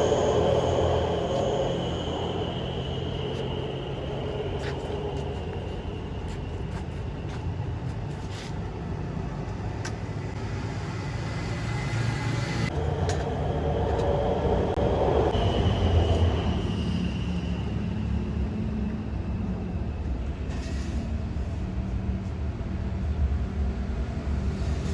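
Road traffic rumbling past, with a couple of vehicles passing closer and louder near the start and about halfway through, and scattered short sharp clinks.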